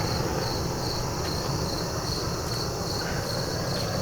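Crickets chirping in a steady rhythm, about two high chirps a second, over the steady low rush of a weed-burner torch firing a raku kiln.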